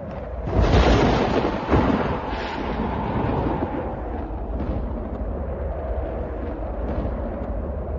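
Thunder: a loud clap about half a second in, a second sharp crack just under two seconds in, then a long, deep rumble rolling on.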